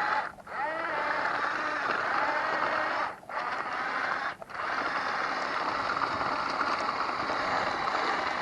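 Small electric drive motors and plastic gearboxes of a 1/18 scale Huina RC bulldozer whining and grinding as it drives and turns, the pitch rising and falling with speed. The motors stop briefly three times.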